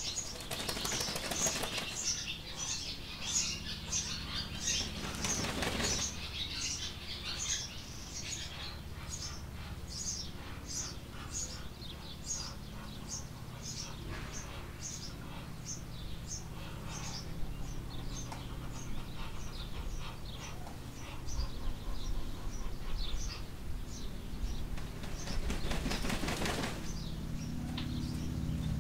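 A small bird chirping over and over at an even pace, a bit more than one chirp a second, with bird wings flapping close by in three bursts: near the start, about five seconds in, and near the end.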